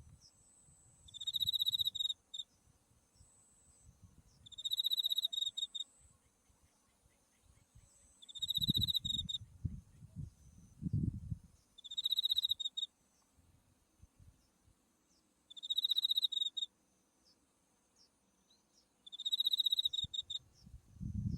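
Autumn crickets chirping. One insect repeats a trilled chirp of about a second, six times at even intervals of about three and a half seconds, over a fainter, steady, very high-pitched hum of other insects. A low rumble comes through in the middle.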